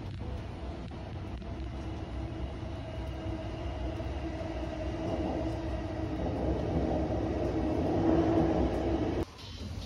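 An orange-striped JR Chuo Line electric commuter train passing close by, its running noise with a steady low hum growing louder to a peak near the end. The sound cuts off suddenly shortly before the end.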